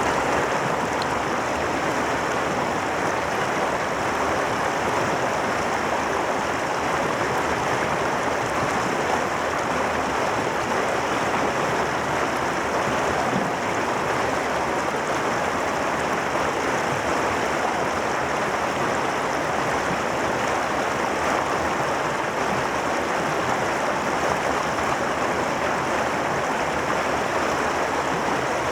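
Mountain valley stream flowing, a steady rushing of water with no breaks or changes.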